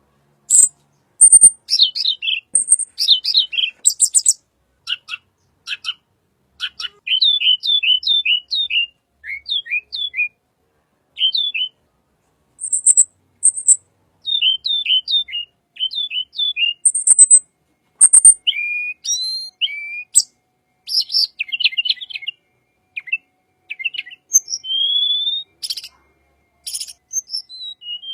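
A tledekan songbird singing: phrases of quick, high chirps, each note sweeping downward, with shrill piercing notes mixed in and short pauses between phrases.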